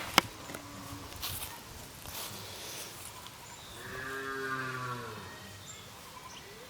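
A single low farm-animal call, about a second and a half long, rising and then falling in pitch. A sharp click sounds just at the start.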